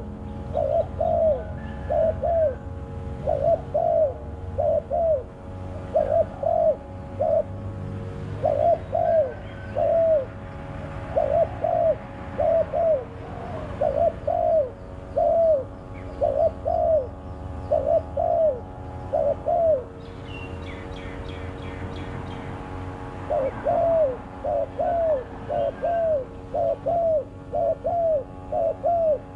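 Spotted dove cooing: a long series of short, repeated coos, about two a second, pausing for a few seconds about two-thirds of the way through. A steady low hum runs underneath.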